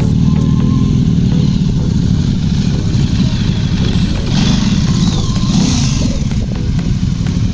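Superbike engines running at low speed, with some revving.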